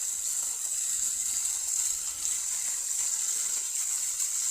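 A steady high-pitched hiss.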